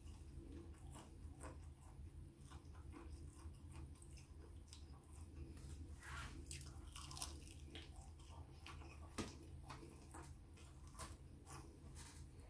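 A person biting and chewing pieces of fried chicken: scattered small mouth clicks throughout, with a low steady hum underneath.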